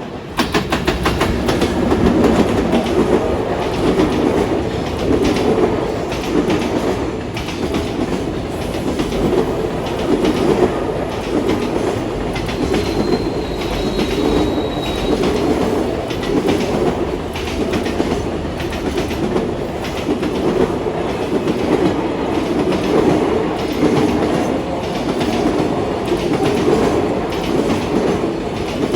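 A long freight train passing close by, its wheels clattering steadily over the rail joints. The noise comes in suddenly just after the start and keeps up throughout, with a brief faint wheel squeal about halfway through.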